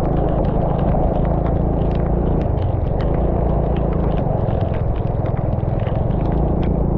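A vehicle's engine running steadily under a heavy rumble of wind and travel noise, with scattered small ticks of rain hitting the camera.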